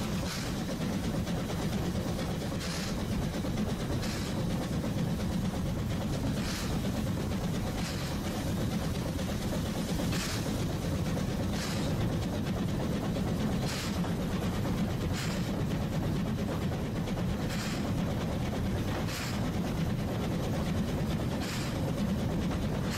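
Ōigawa Railway train running along the line: a steady low rumble with short clacks from the wheels, coming in pairs about a second and a half apart, the pairs repeating every few seconds.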